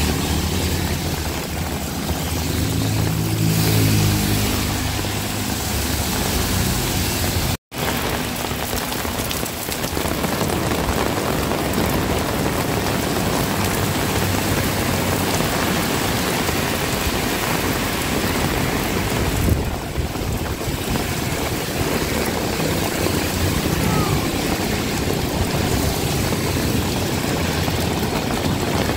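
Heavy rain falling steadily, a dense hiss of rain, with a motor vehicle's engine running by in the first several seconds. The sound cuts out for an instant about eight seconds in.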